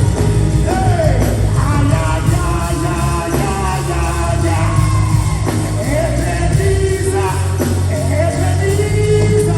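Live gospel worship band playing loudly with a heavy bass line, and voices singing and calling out over it.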